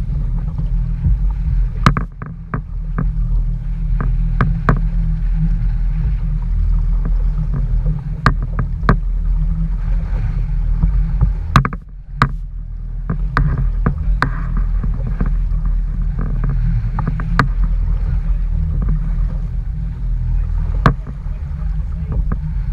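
Strong wind buffeting the microphone, a steady low rumble, with scattered sharp knocks and taps every second or so.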